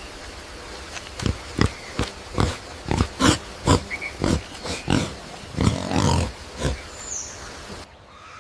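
A run of about a dozen short, rough animal huffs, roughly two a second, fading out near the end.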